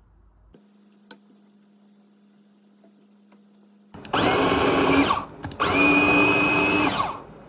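Electric blender motor run in two short bursts, each spinning up to speed, holding and winding down, pureeing baby food. Before it a faint steady low hum and a single click are heard.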